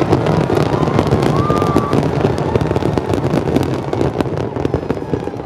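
Fireworks display in a dense barrage: many shell bursts rumbling together without a break, overlaid with rapid crackling pops.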